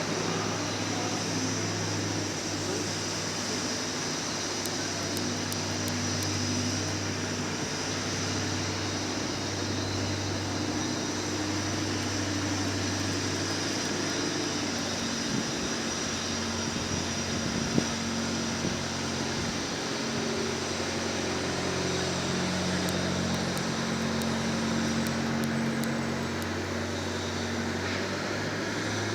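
Garbage compactor truck running steadily, its low hum stepping up and down in pitch a few times, with a couple of light knocks around the middle.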